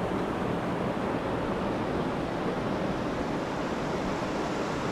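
Steady rushing of a fast-flowing creek, an even hiss of water with no break.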